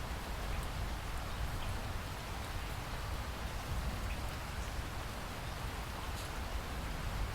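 Steady rainforest rain falling, with a low rumble underneath and scattered drops ticking over the hiss.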